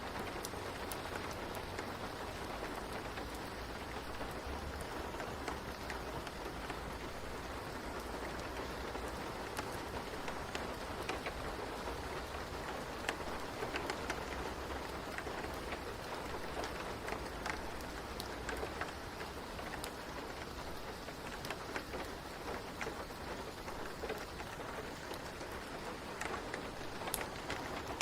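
Steady rain falling in an even hiss, with scattered sharp ticks throughout.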